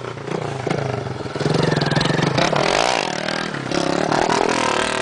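Motorcycle engine running and revving, its pitch rising and falling a couple of times.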